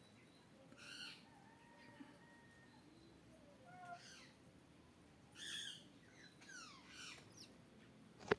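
Faint bird calls: a few short separate calls, then a run of quick falling chirps near the end. A sharp click comes just before the end.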